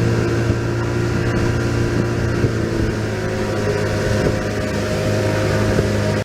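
A motor running steadily at an even pitch, with a strong low hum.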